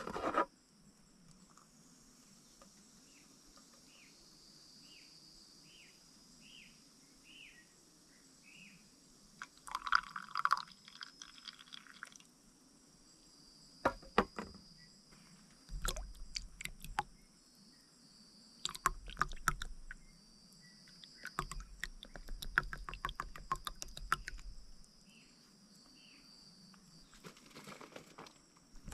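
Forest ambience with a steady high insect hum. Early on a bird gives a run of short falling notes. After that come several bursts of crackling and rustling, like things being handled or twigs and leaves being crunched.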